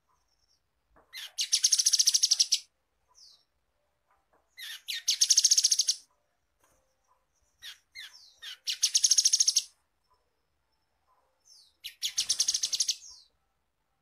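Grey-headed canary-flycatcher singing: four short phrases of very rapid, high repeated notes, each a trill of a second or two, about three and a half seconds apart, with a few short single notes leading into each.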